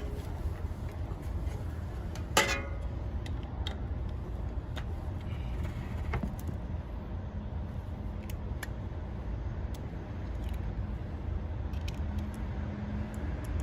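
Scattered metallic clicks and clinks of hand tools on a condenser fan motor's top cover, with one loud ringing metal clank about two seconds in, over a steady low rumble.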